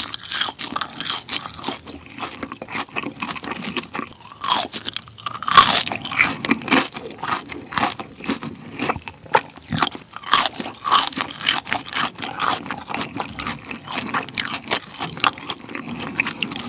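Crispy seasoned French fries being bitten and chewed close to the microphone: a dense run of irregular crunches.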